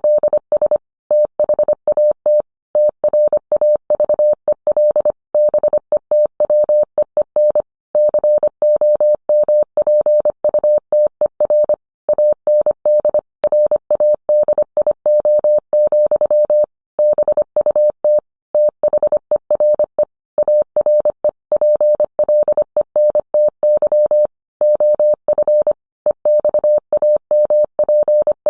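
Morse code: a single mid-pitched tone keyed rapidly on and off in dots and dashes, with brief pauses between characters and words.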